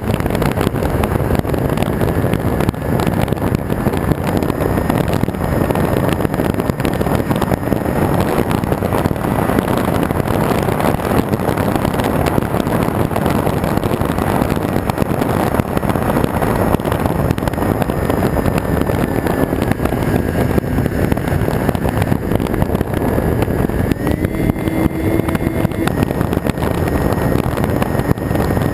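Onboard sound of an RC Twin Star model plane in flight: loud rushing air on the camera's microphone with the thin, steady whine of its twin electric motors, the whine stepping up in pitch for a couple of seconds a few seconds before the end.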